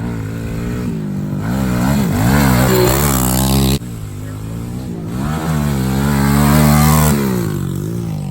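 Pit bike engine revving up and down in two runs of acceleration, its pitch climbing and falling. The first run cuts off abruptly about four seconds in.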